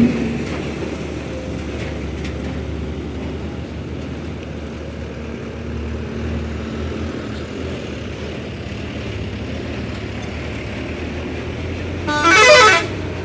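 A heavy truck's engine runs with a steady low drone. Near the end a horn blasts once for about a second, its pitch dipping and then rising again.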